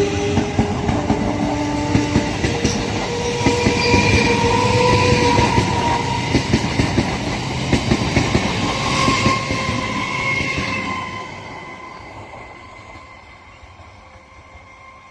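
Express passenger train running past at speed, its coach wheels clattering over the rail joints in a regular rhythm; the clatter fades away after about eleven seconds as the train moves off.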